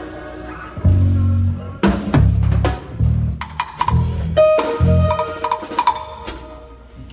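Band sound check: a drum kit played in irregular kick and snare hits and short fills, over several held bass notes. A few sustained higher instrument notes come in around the middle.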